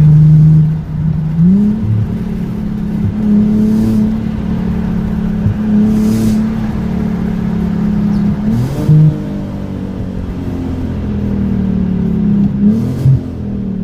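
Straight-piped exhaust of an Infiniti G37xs's 3.7-litre V6, with a high-flow resonator, under acceleration. The revs climb about a second and a half in, hold, drop and climb again at a gear change partway through, then fall away near the end.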